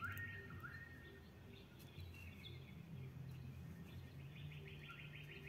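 Faint bird chirps: a few short rising calls near the start, then a rapid repeated trill from about four seconds in, over a low steady hum.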